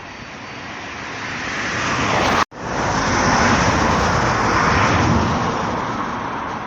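Road traffic passing close by: tyre and engine noise builds as a vehicle approaches, cuts off abruptly about two and a half seconds in, then comes back loud and eases off slightly toward the end.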